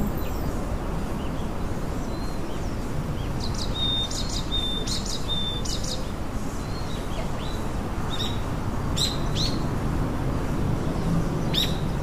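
Small birds chirping: scattered short, high chirps, several in quick runs, over a steady low background hum.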